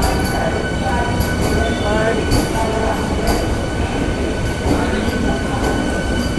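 Vande Bharat Express (Train 18) electric train running: a steady low rumble of wheels on rail with a constant high whine over it and scattered short clicks.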